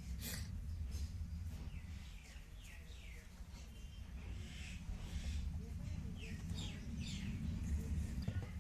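Small birds chirping now and then, many short falling calls, over a steady low rumble.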